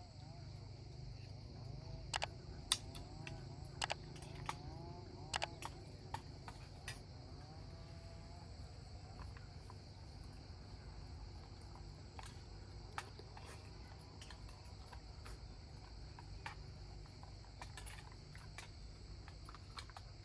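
Steady high-pitched insect chorus, with scattered sharp clicks and taps throughout, most of them in the first several seconds. Short, arching calls come in over the first few seconds.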